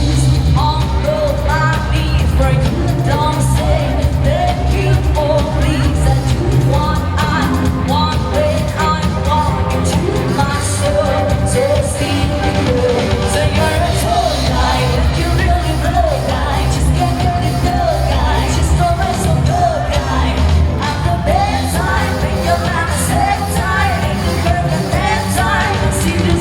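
Live pop-rock band playing with a singer, amplified through a PA sound system.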